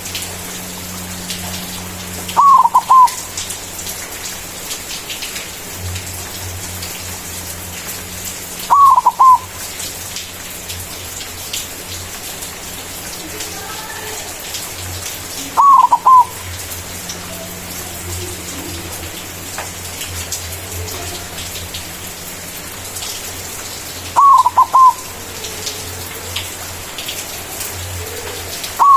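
Zebra dove (white perkutut) cooing: five loud, short phrases of two or three quick notes, about every six to seven seconds, over a steady hiss and low hum.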